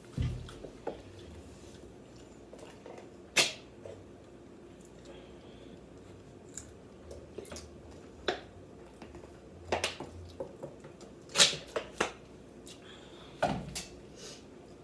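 Eating at close range: chewing and mouth noises with about a dozen scattered sharp clicks and taps, the loudest about three and a half seconds in and again about eleven and a half seconds in.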